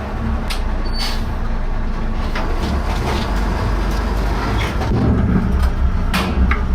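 Cummins 8.3 turbo diesel of an M923 5-ton military truck running with a low rumble that grows louder about five seconds in, with a few short sharp knocks.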